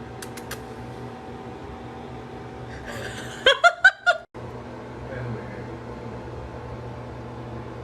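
A short giggling laugh of four or five quick rising-and-falling notes about halfway through, over a steady low hum.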